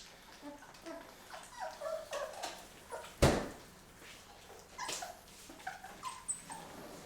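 Three-week-old Labrador retriever puppies whimpering and squeaking in short, scattered cries. A single sharp knock about three seconds in is the loudest sound.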